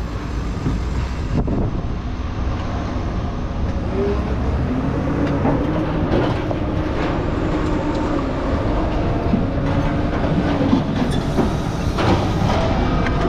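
Excavator-mounted hydraulic scrap shear working on aluminum scrap: a steady low diesel engine rumble under load, with a wavering whine or squeal of metal and hydraulics from about four seconds in to about eleven, and a few sharp knocks.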